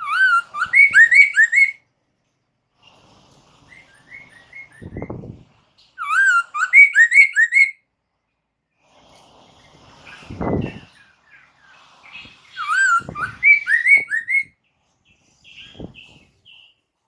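Poksay mandarin, a caged laughingthrush, singing in three loud bouts of quick, repeated looping whistles, with softer notes between them. Several short low thumps come in between, the loudest about ten seconds in.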